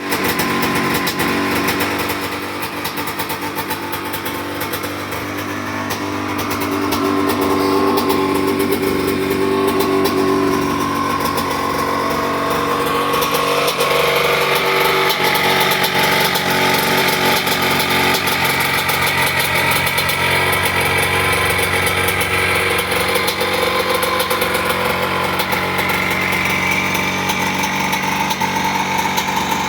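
Freshly rebuilt 1988 Kawasaki Tecate 4's 250 cc two-stroke single-cylinder engine running, its note shifting up and down as it is revved. It eases off a little about two seconds in and picks up again a few seconds later.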